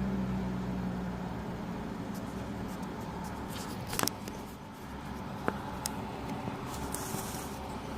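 Road traffic: a vehicle's engine hum fades away in the first second over a steady low rumble. A few sharp clicks come about four and five and a half seconds in, and a short hiss near the end.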